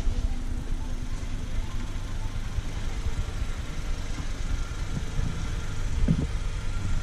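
2016 Honda Civic's 1.5-litre turbocharged four-cylinder engine idling, a steady low rumble.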